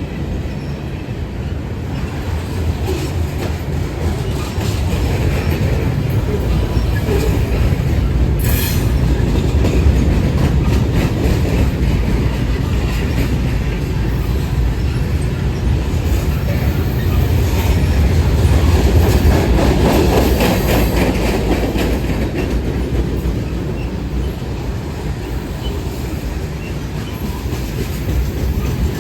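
A train rolling past at close range: a steady heavy rumble with the rapid clickety-clack of wheels over rail joints, swelling and easing as the cars go by, with a brief sharp high sound about eight seconds in.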